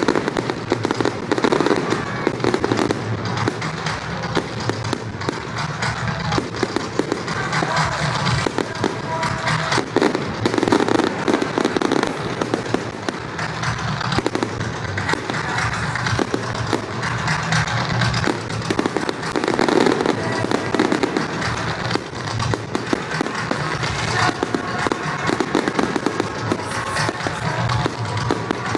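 Fireworks display: a continuous stream of shell bursts, bangs and crackling, with music playing underneath.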